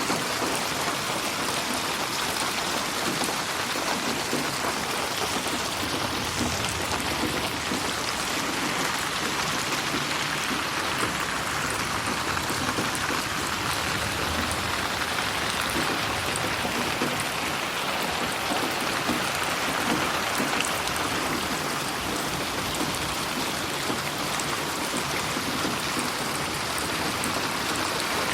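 Steady rain falling, an even hiss with scattered drop ticks, processed as 8D audio so it seems to move around the listener.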